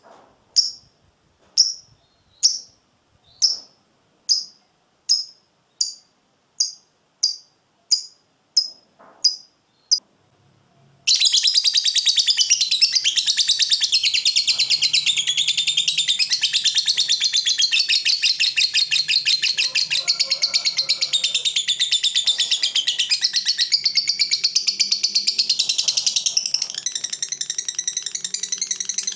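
Lovebird calling: a run of short, sharp chirps about every 0.6 seconds, then after a brief pause a long, unbroken, very rapid chattering trill (the 'ngekek' prized in fighter lovebirds) starting about eleven seconds in.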